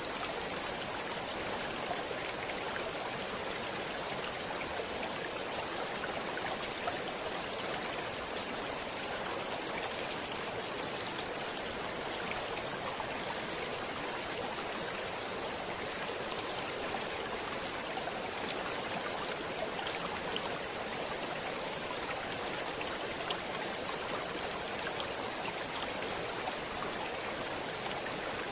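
Stream water flowing steadily: an even rush of water with faint small splashes, light on deep rumble.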